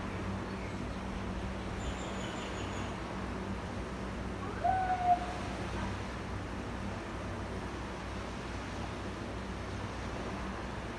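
A bird call: one short, low-pitched note about five seconds in, with a faint, thin, high call near two seconds, over a steady background hiss and low hum.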